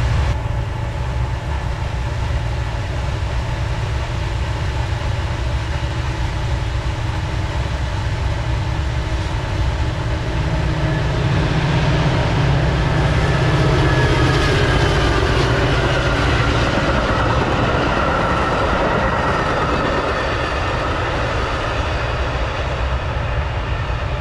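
A Metra commuter train passes on BNSF track, its wheels running over the rails, growing louder from about halfway through and easing off near the end. Under it runs the steady rumble of a railroad switch heater blowing to keep the switches from freezing.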